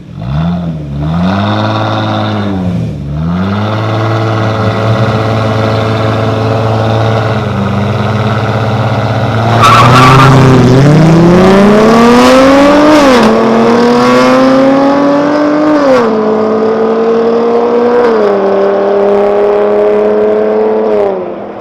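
A car engine revs twice, then holds at high revs. About ten seconds in, a burst of tire squeal comes as the car is driven off hard, and the engine pitch climbs and drops several times as it accelerates.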